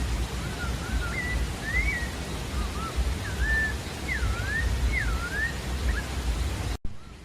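Pale-breasted thrush (sabiá-da-várzea) singing a steady series of short, clear whistled phrases, each note sliding up or down, over a constant background hiss. Near the end the hiss drops suddenly to a quieter level while the singing carries on.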